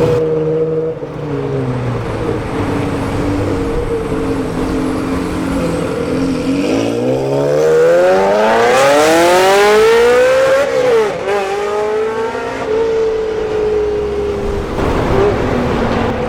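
A supercar's engine running at a steady note, then accelerating hard: the revs climb for about four seconds and peak loudest, drop suddenly at a lift or gear change, and settle back to a steady note.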